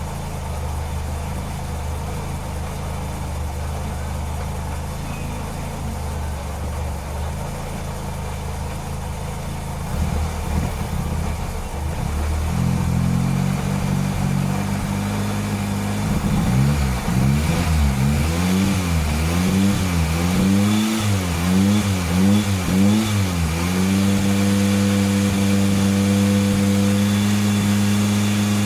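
Mitsubishi Celeste's four-cylinder petrol engine running: a steady idle, rising about halfway, then revved up and down in quick blips for several seconds before holding at a raised steady speed near the end.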